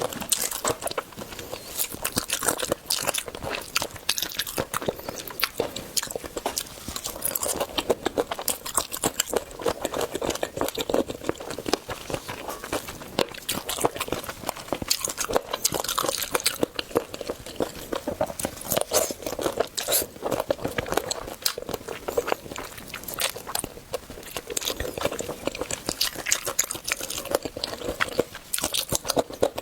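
A person eating chicken feet: repeated biting, crunching and wet chewing, with dense irregular clicks throughout.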